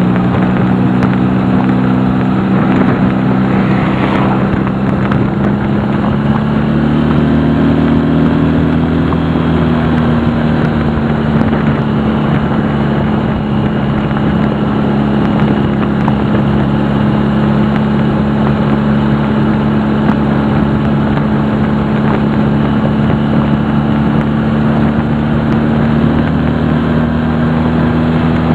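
A Honda CD175 motorcycle's parallel-twin engine running steadily at cruising speed, with wind noise on the microphone. The engine pitch rises briefly about seven seconds in, then settles back.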